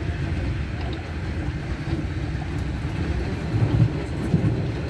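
Passenger train running, heard from inside the carriage: a steady low rumble of wheels on the track, with a few stronger low thumps a little past halfway.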